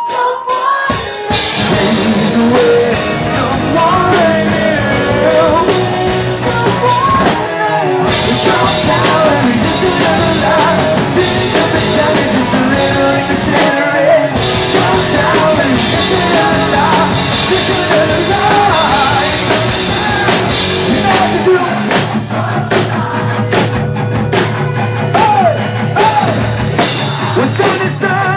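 Live rock band playing loud and continuously, with a drum kit keeping a steady beat under the other instruments and voice.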